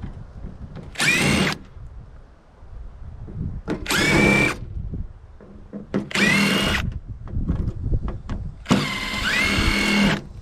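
Power drill run in four short bursts, each a whine that rises as the motor spins up and then holds, with the last burst the longest: the tool is driving out screws while a microwave is stripped for scrap. Light knocks and handling noise fall between the bursts.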